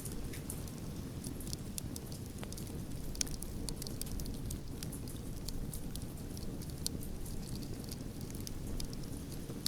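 Wood fire burning, a steady low rumble of flames with many sharp crackles and pops scattered irregularly, several a second.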